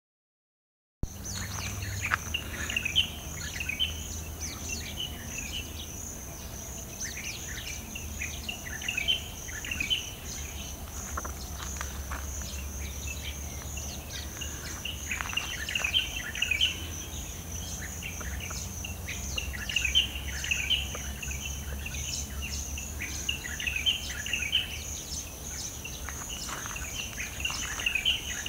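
Morning chorus of many birds giving short chirps and calls, over a steady, high-pitched pulsing trill of insects, with a faint low hum beneath. It begins suddenly about a second in.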